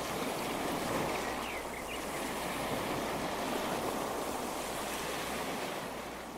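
Ocean surf breaking, a steady rush of waves, with a few faint high chirps about a second and a half in.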